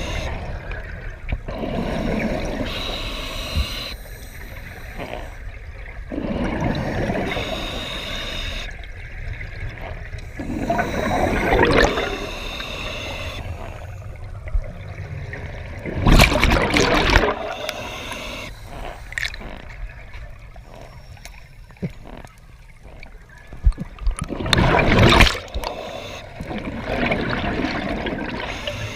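Scuba diver breathing through a regulator underwater: hissing inhalations alternate with gurgling bubble bursts as each breath is let out, the loudest bursts coming about halfway through and again near the end.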